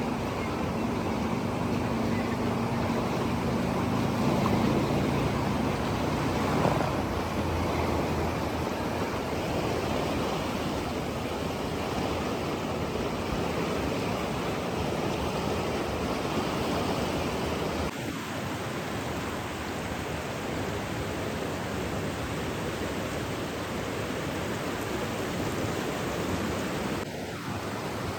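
Steady rushing water, an even hiss-like wash, stepping down slightly in level about two-thirds of the way through and again just before the end.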